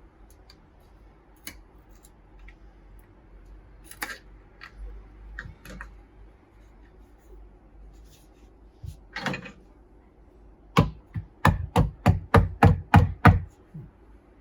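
Scattered clicks and knocks of tools being handled, then, about eleven seconds in, a quick run of about nine sharp knocks, about four a second, the loudest sounds here, struck while working at a stuck screw in a vintage slicer's wooden base.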